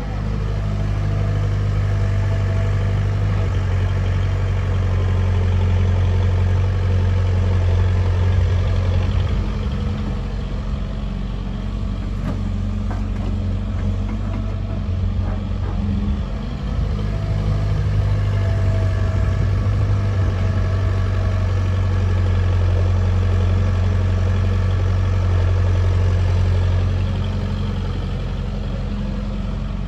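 Sonalika DI-35 RX tractor's diesel engine running steadily, pulling harder twice: it gets louder for about eight seconds, eases off about ten seconds in, then works hard again for about ten seconds from about seventeen seconds in.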